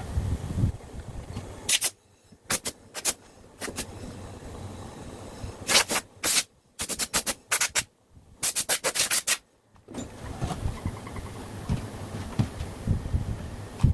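Compressed air from a homemade air compressor built from a refrigerator compressor, let out in a string of short hissing bursts, some in quick runs of several.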